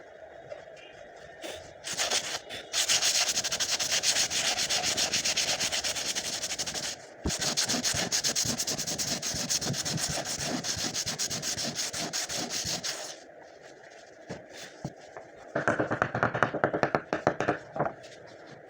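Wood surface being sanded by hand in fast back-and-forth strokes, a long scratchy bout with a short break in the middle and a shorter, lower-pitched bout near the end. The sanding smooths the wood repair.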